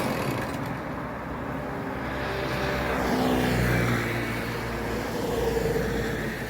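Two-stroke chainsaw engine running at low revs after a cut through an oak log, its pitch drifting up and down.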